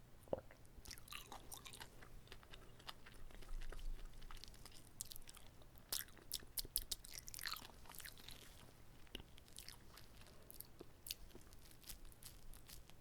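Close-miked chewing of a whole uncut gimbap roll, with many quick wet mouth clicks and crackles, thickest in the middle.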